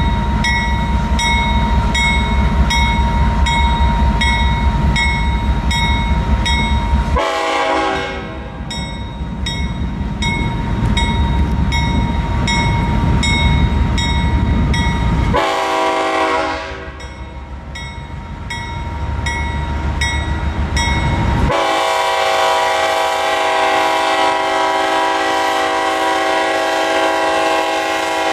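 Freight train rumbling through a level crossing while the crossing's electronic bell rings with even, rapid strokes. A diesel locomotive's air horn sounds a short blast about seven seconds in, another about fifteen seconds in, then a long blast from about twenty-one seconds on that covers the bell.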